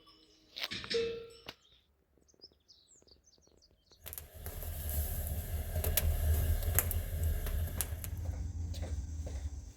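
Faint bird chirps, then about four seconds in a wood fire comes in suddenly: crackling and popping over a low rumble.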